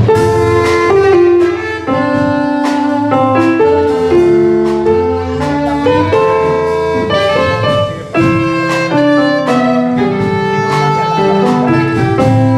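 Live instrumental ensemble music, with pitched melody and chord notes moving over steady percussive hits keeping the beat.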